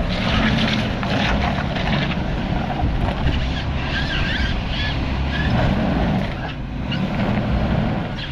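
A 4x4's engine running steadily under load as the vehicle crawls over rocks on a trail.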